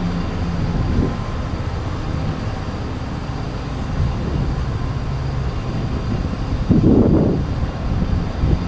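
Steady low rumble of motor-vehicle or road-work machinery engines on a city street, with a louder burst of noise about seven seconds in.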